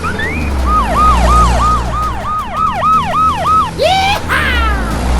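Emergency siren sound effect: a fast yelping wail that rises and falls about three times a second for roughly three seconds, over a steady low rumble. Short sliding vocal-like sound effects come just before and after it.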